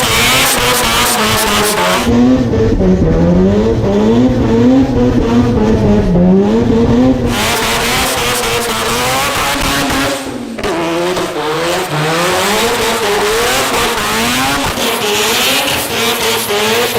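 Rotary-engined car revving hard, its engine pitch rising and falling about once a second as the throttle is worked, with tyres squealing under wheelspin.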